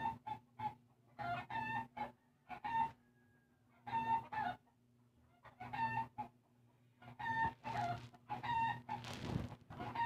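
Short pitched bird calls in quick clusters of two or three, coming back about every second or so, with a rougher, noisier call near the end. A steady low hum runs underneath.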